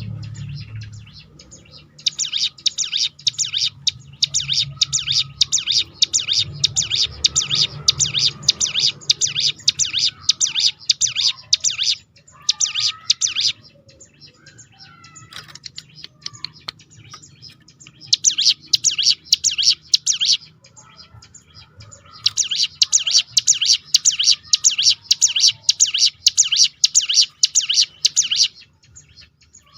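Hill prinia (ciblek gunung) singing its rapid 'tembakan' roll: long runs of fast, evenly repeated high notes, broken by several short pauses.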